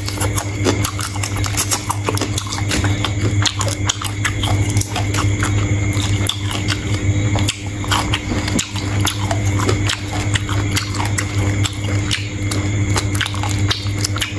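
A person biting and chewing sea shrimp, with many quick crackling clicks throughout, over a steady low hum.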